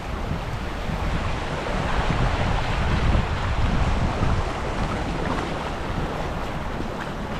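Wind buffeting the microphone in a low rumble that swells and eases, over the wash of river water around a moving kayak.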